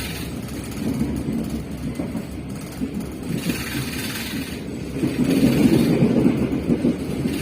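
Train running on rails: a steady rumble of wheels and running gear that grows louder about five seconds in.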